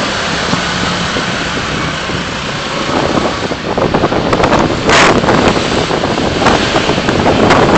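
Road and engine noise from a moving car, with wind buffeting the microphone. The buffeting sets in about three seconds in as irregular crackling gusts, the strongest about five seconds in.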